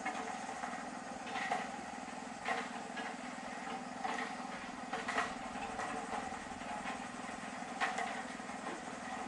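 A small engine or machine running steadily, with short sharp clicks or knocks about once a second.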